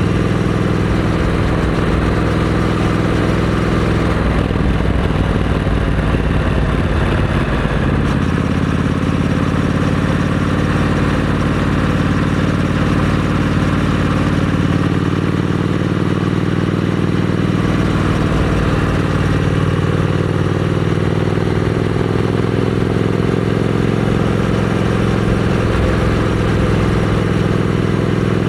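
Triumph Scrambler 900's parallel-twin engine running through a Vance & Hines aftermarket exhaust, holding a steady note with a shift in pitch about five seconds in.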